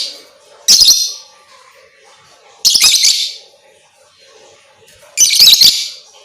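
Lovebird calling in three loud, high-pitched, rasping bursts, each under a second long and spaced about two seconds apart.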